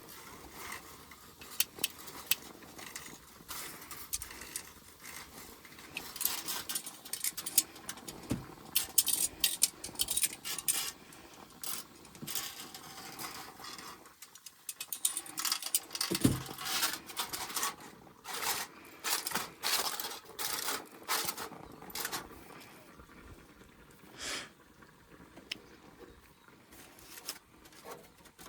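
Irregular clicks, clinks and scrapes of camp cookware and utensils being handled, with rustling in between.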